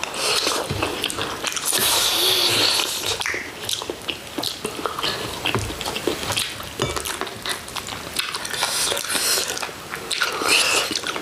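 Close-up eating sounds: chewing and biting into braised chicken, with many small wet clicks and irregular bursts of hiss-like noise.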